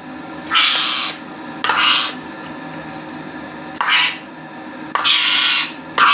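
Pet parrot giving about five short, harsh squawks at uneven intervals of a second or so.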